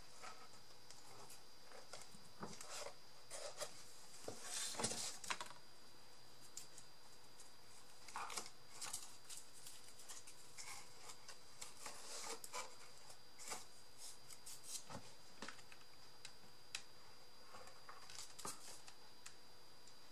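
Paper and thin card being handled and cut with scissors: scattered small snips, rustles and taps, with a faint steady high whine underneath.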